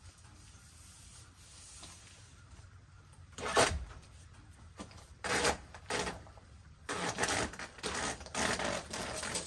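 Short rubbing and scraping strokes of hands working on a window frame against house wrap: one sharp stroke a few seconds in, a couple more, then a quick run of about five near the end.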